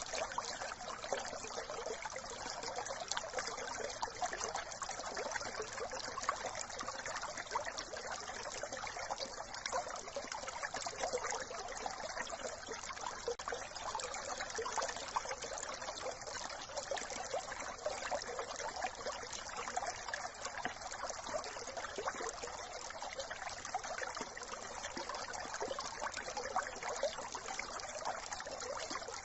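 Brook water trickling and babbling over stones, a steady dense splashing with no pauses.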